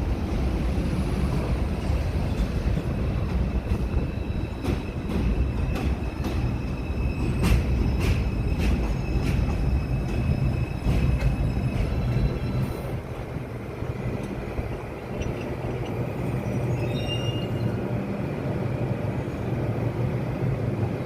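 New York City subway train running through the station with a steady rumble. In the middle it gives a run of sharp clicks from the wheels over the rail joints, with brief high-pitched squeals, loudest about seven seconds in.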